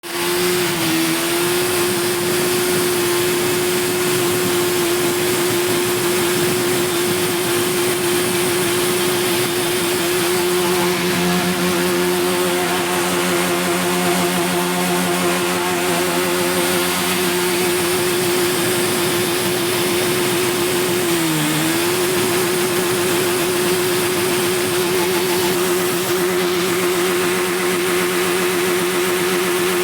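TVS Apache RR 310's single-cylinder engine held at high, steady revs on a top-speed run, under heavy wind rush. The engine note dips briefly once, about two-thirds of the way through, then settles back.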